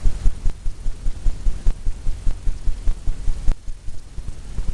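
A painting tool tapping rapidly against a stretched canvas, making a run of even, dull thumps about five a second as paint is dabbed on. A sharper click comes about three and a half seconds in.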